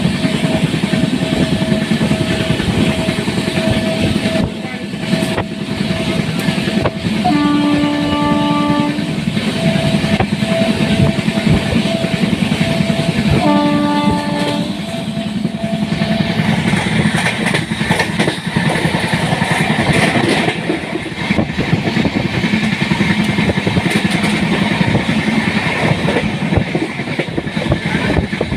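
Express passenger train running at speed, its wheels clattering steadily over the rail joints. The locomotive horn sounds two blasts of about a second and a half each, roughly six seconds apart.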